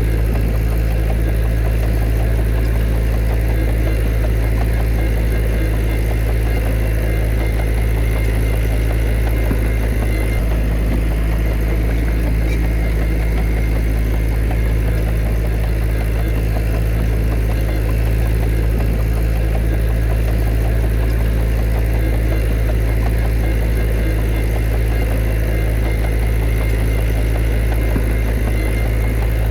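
Diesel engine of heavy earthmoving machinery running steadily at an unchanging speed, dominated by a deep, even low hum.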